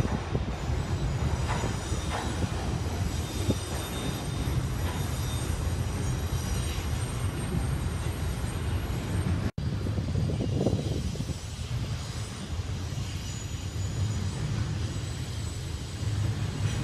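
Freight trains rolling past on elevated track: a steady low rumble of steel wheels on rail, with faint high wheel squeal. The sound cuts out for an instant about halfway through, then the rumble carries on.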